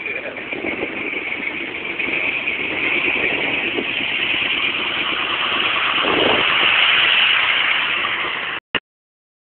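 Car doing a burnout: engine revving hard with a loud rushing hiss of spinning tyres that builds up, then cuts off abruptly near the end.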